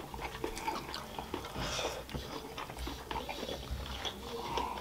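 Close-up chewing and crunching of fried finger crisps (dhumro): a run of small, irregular crackles and clicks from the mouth.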